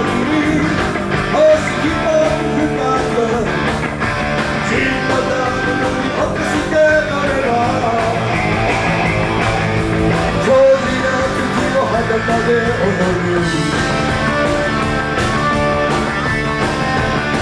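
Live blues-rock band playing loudly: electric guitar, bass and drums, with pitch-bending lead lines.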